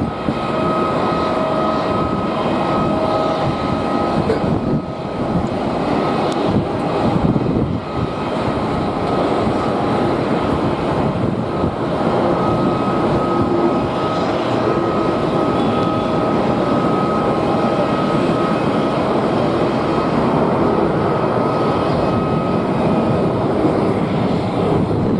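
Jet airliner engines running, a steady loud rush of noise with high whining tones that fade in and out, with strong wind buffeting the microphone.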